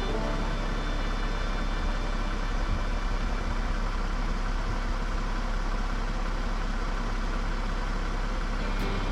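Steady low rumble and road noise of a car driving, with no change in pitch or level.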